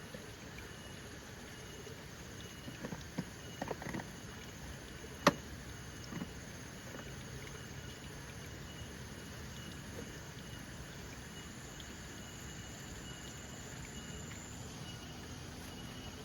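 Steady outdoor background noise with a faint, high tone that repeats in short dashes, and a few scattered clicks and knocks; the sharpest, loudest click comes about five seconds in.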